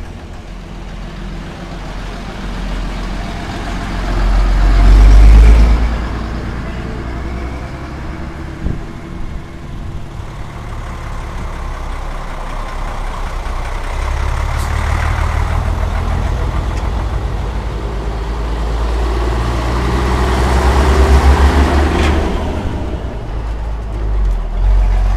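Vintage Scania-Vabis bonneted (torpedo) trucks driving past, their diesel engines rumbling. The sound swells loudest about five seconds in and again around twenty-one seconds in as trucks pass close.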